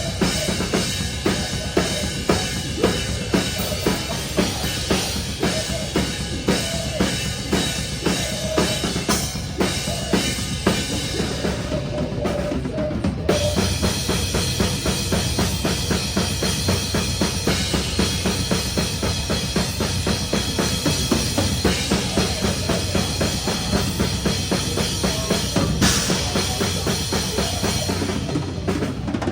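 Metalcore band playing live, heard close to the drum kit: bass drum and snare hits lead, with distorted guitars and bass underneath. About halfway through the drumming turns much busier, with rapid kick drum strokes.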